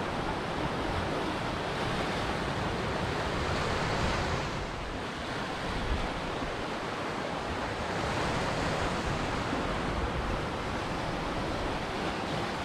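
Ocean surf: waves breaking and washing ashore, a continuous rush that swells and eases every few seconds.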